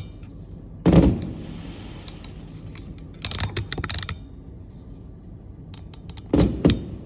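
Fireworks going off: a single bang about a second in, then a burst of rapid crackling a few seconds later and another loud burst of bangs and crackles near the end.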